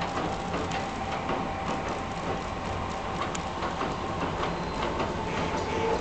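Track noise of an approaching electric express train: scattered light ticking with a steady faint high hum from the rails as the train nears.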